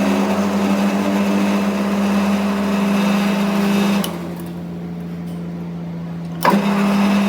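A motor-driven machine running steadily with a hum and a hiss. About four seconds in it drops away to a lower hum, then comes back with a click a couple of seconds later.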